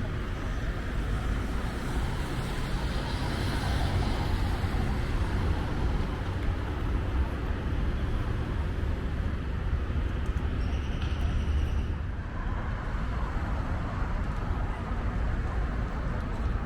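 City street traffic: a steady rumble of cars and other motor vehicles running past, with a brief high-pitched tone partway through.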